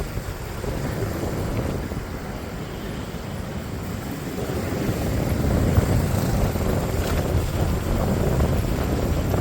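Motorcycle on the move: a low steady engine and road rumble with wind buffeting the microphone, growing a little louder about halfway through.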